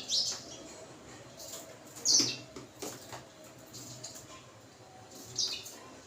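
House sparrows chirping: three short, high chirps a few seconds apart, the loudest about two seconds in, with faint clicks between them.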